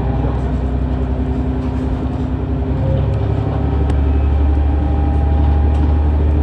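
Diesel engine of a KiHa 110-series railcar (KiHa 111-107), heard from on board as a steady low drone with engine tones, growing a little louder about three seconds in.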